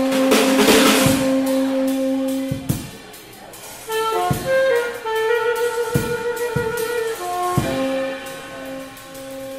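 Live jazz band playing: a saxophone holds long notes over a drum kit, with a cymbal wash at the start and scattered drum hits. The band drops quieter for about a second a third of the way in, then the horn comes back in.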